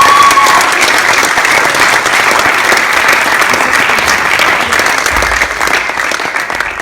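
Audience clapping and applauding an award winner, with a short rising whoop at the start; the applause tapers off near the end.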